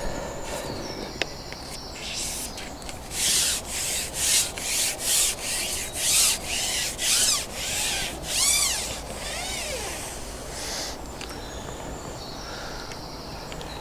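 A run of about a dozen short rubbing strokes, roughly two a second, from about three seconds in to about nine seconds in, then a low steady background.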